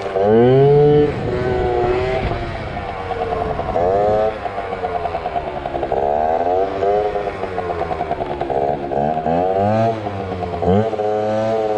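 Yamaha ZR Evo two-stroke scooter engine revving, its pitch climbing and falling again several times under repeated throttle blips, as when throttling up to lift the front wheel.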